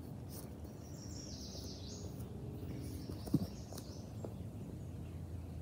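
Birds chirping and singing in the trees over a steady low outdoor background, with one short thump a little past three seconds in.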